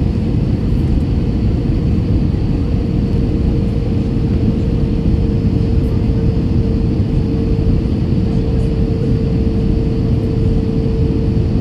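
Airbus A321 cabin noise on final approach: a steady, deep rumble of engines and airflow with a constant humming tone running through it.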